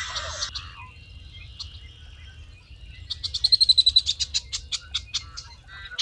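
Marsh birds calling at dawn: a busy chorus of high calls fades out about a second in, and about three seconds in one bird gives a rapid rattling trill of sharp, high notes, about eight a second, for some two seconds.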